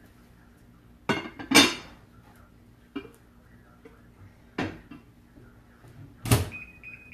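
Plastic Mix 'N Chop tool clacking and scraping against a ceramic Rockcrok pot while browned hamburger is stirred: five separate clatters, the loudest about a second and a half in. Near the end, a quick run of high electronic beeps, as from a microwave keypad.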